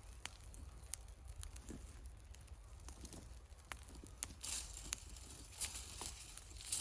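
Wood fire crackling faintly, with irregular sharp pops and snaps, a few louder ones in the second half.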